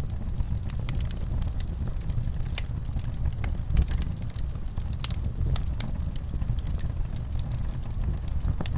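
A fire crackling: a steady low rumble of burning with irregular sharp pops and snaps throughout, one louder pop about four seconds in.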